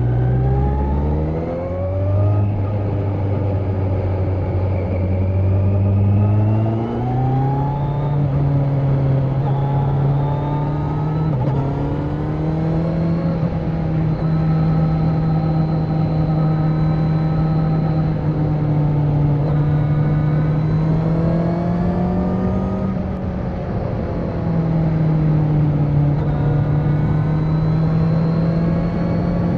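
Kawasaki Z900's inline-four engine with its catalytic converter removed, pulling hard and shifting up in the first couple of seconds, then holding a steady engine speed that steps up about seven seconds in and stays fairly even, with a brief dip near the end.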